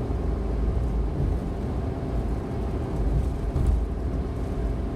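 Steady low drone of road and engine noise inside the cabin of a Suzuki Every DA17V kei van cruising at expressway speed.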